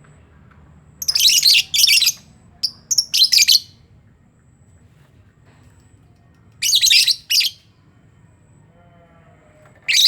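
Lovebirds in a colony giving harsh, shrill chattering calls in four short bursts with quiet gaps between them.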